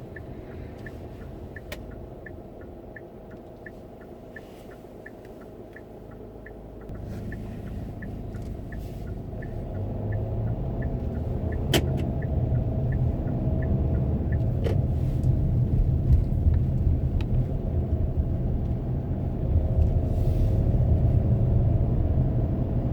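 Car interior on the move: engine and road rumble grow louder as the car picks up speed from about seven seconds in. Through the first half a turn-signal relay ticks steadily, two to three ticks a second, then stops.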